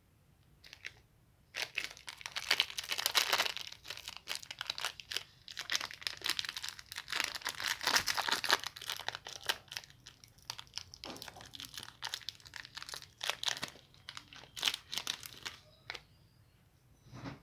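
Plastic candy wrapper crinkling and tearing as it is opened, a long run of dense crackles that stops near the end, followed by a short soft thud.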